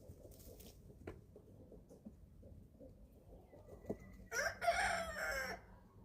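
A young chicken gives one loud call about a second long, a little after four seconds in, with a few faint ticks before it.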